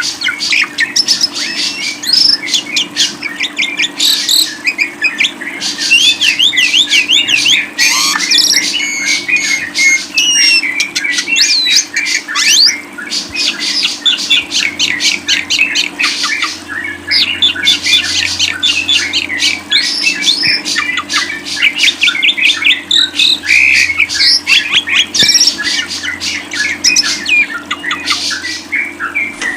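A lovebird's fast, continuous chattering song, mixed with sharp squawks and short whistled notes, with only brief pauses. A faint steady hum runs beneath it.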